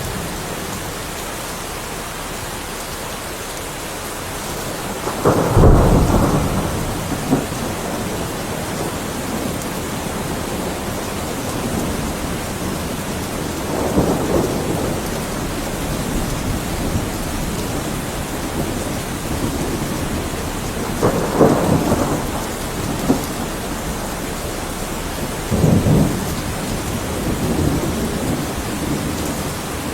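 Heavy rain falling steadily, with thunder rumbling four times: the loudest roll about five seconds in, then others about every seven or eight seconds.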